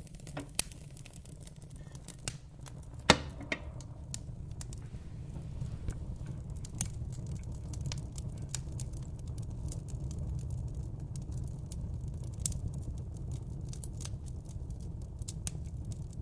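Wood fire in a fireplace crackling, with frequent sharp pops and snaps over a steady low rumble of the flames; one loud pop stands out about three seconds in.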